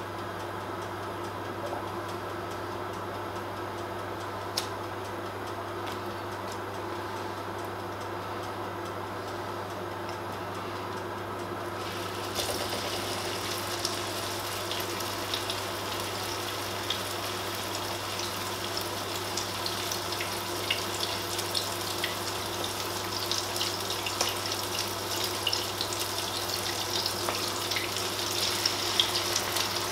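Egg-dipped rabanadas (Portuguese French toast) frying in hot oil in a nonstick pan. A steady sizzle with small crackles starts suddenly about twelve seconds in and grows busier near the end, as a second slice is laid in. Before the sizzle there is only a steady background hum.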